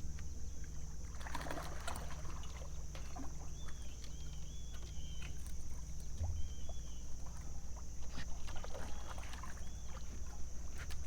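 Scattered knocks and rustles of gear being handled in a fishing boat, over a steady low hum and a steady high-pitched hiss, with a few short repeated chirps.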